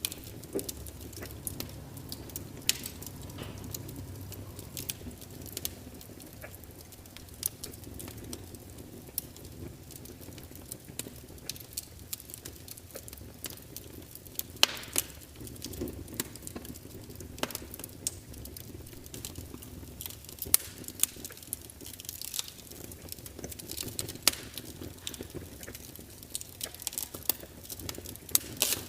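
Log fire burning, with a low steady rumble under irregular sharp crackles and pops, a few of them louder.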